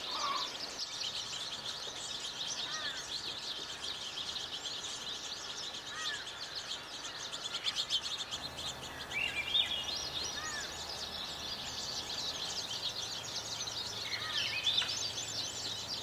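Wild birds calling: a dense, high twittering chatter throughout, with a short call repeated every three or four seconds and a rising call about halfway through.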